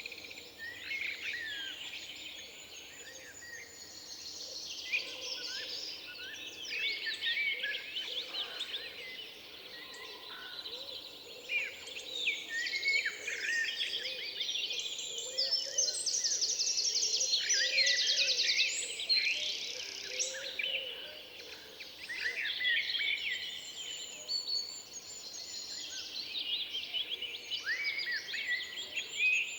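A chorus of woodland songbirds singing at once, many overlapping chirps, whistles and trills. A fast, rapid trill stands out as the loudest part about halfway through.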